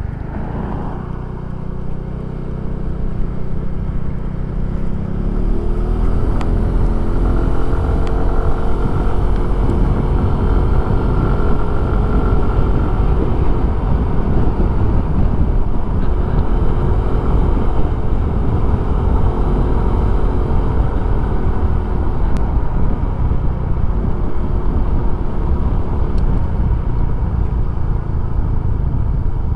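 Suzuki Address 110 scooter's small single-cylinder engine running on the move, picking up speed and getting louder about five seconds in, then holding a steady pace. Heavy wind noise on a helmet microphone runs under the engine.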